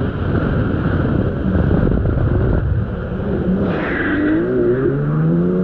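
Kawasaki X2 jet ski's 650 cc two-stroke twin running under way, amid a dense rushing rumble. About four and a half seconds in, the engine note rises as it revs up.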